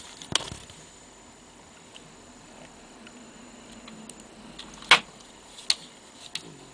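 Several sharp clicks over a faint steady hiss, the loudest about five seconds in.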